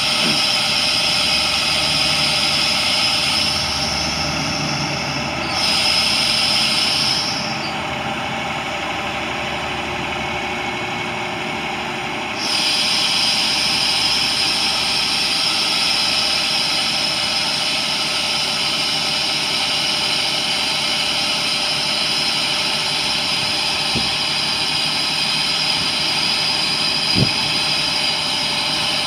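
International DT466 turbo diesel engine of a boom truck idling steadily. Two short knocks come near the end.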